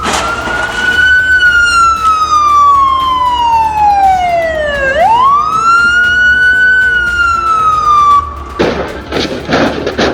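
An emergency vehicle siren wailing over background music: one slow fall in pitch, a quick rise about five seconds in, then another slow fall. Near the end the siren stops and a few seconds of loud rough noise follow.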